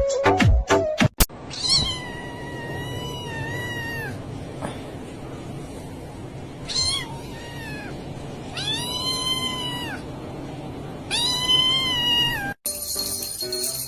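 A cat meowing four times in long, drawn-out calls; the first lasts about two and a half seconds and the others are shorter. Brief music plays before and after.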